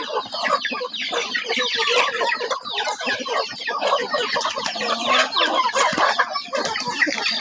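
A flock of young chickens clucking and chirping together, many short overlapping calls with no pause.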